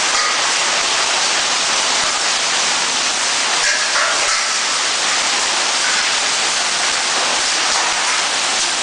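Hailstorm: hail and heavy rain falling hard, a dense, steady hiss of impacts.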